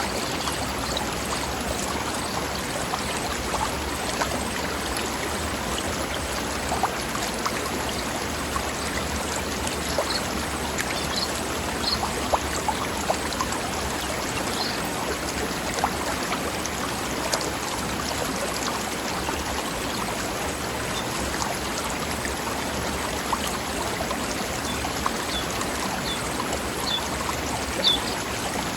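Forest stream babbling over rocks: a steady rush of running water with small splashes.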